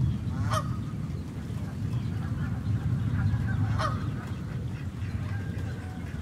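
Steady rain falling on a lake, with two short honking calls from a waterbird about three seconds apart.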